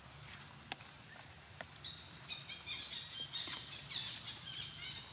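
Birds chirping in quick succession, many short high calls a second, starting about two seconds in after two light ticks.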